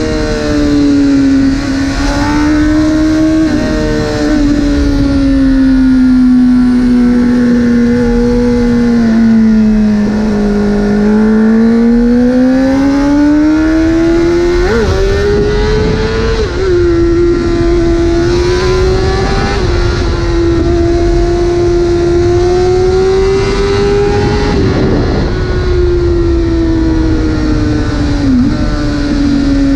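Honda CBR600RR's inline-four engine through a full titanium Arrow exhaust, running at high revs while riding. The pitch sinks slowly, climbs back, and jumps briefly a couple of times about halfway through.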